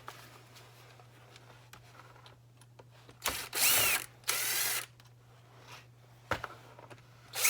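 Electric drill-driver running in short bursts while backing out small carburetor screws: two quick runs about halfway through and another near the end.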